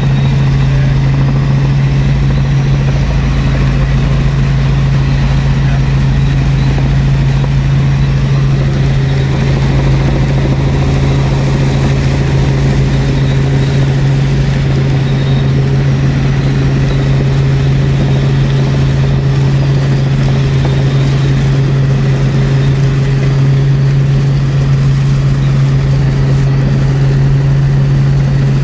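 Helicopter in flight, heard from inside the cabin: a loud, steady low drone of rotor and engine that holds one pitch throughout.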